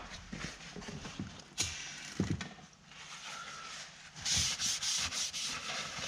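Rubbing and scrubbing caulk residue off the metal vent window frame with a rag and brake cleaner: a dry, scratchy rubbing in short strokes with a few light knocks. It gets louder and harsher for the last two seconds.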